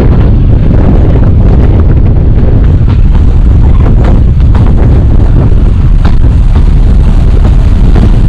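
Narrow-gauge train running: a loud, steady low rumble with wind buffeting the microphone and scattered sharp clicks.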